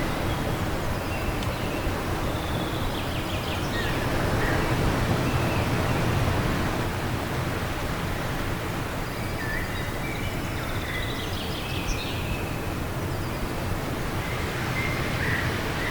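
Wind blowing steadily, with a low rumble, while small birds chirp in short high phrases now and then, in clusters early, around the middle and near the end.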